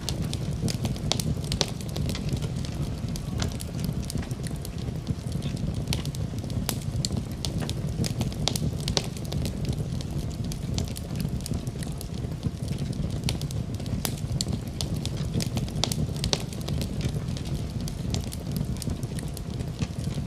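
Fire in a fireplace crackling and popping: many irregular sharp snaps over a steady low rush of flame.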